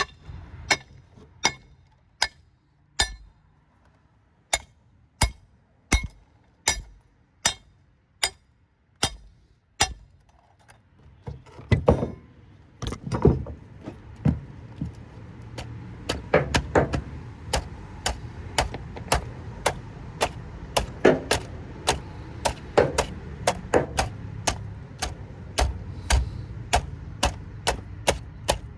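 Hammer blows on a scrap transformer, struck over and over to break it apart and free the copper windings. At first about one blow every three-quarters of a second, then from about eleven seconds in faster and heavier, around two a second, with a low rumble underneath.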